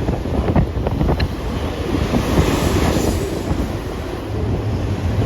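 Freight train cars rolling past with a steady low rumble and a few short wheel knocks about a second in, with wind buffeting the microphone.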